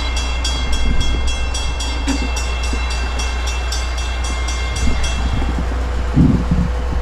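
Grade-crossing warning bell ringing rapidly as the crossing gates lower, then stopping about five seconds in once the gates are down. A low thump follows near the end, over a steady low rumble.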